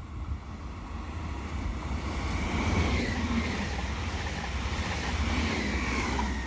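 Train passing close by: a low rumble and rushing noise that swell over the first couple of seconds, with a thin whining tone that dips and recovers twice.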